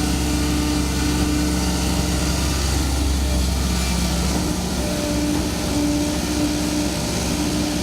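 Excavator engine running steadily under work, with a constant hum and steady tones; its deepest low rumble drops away about four seconds in.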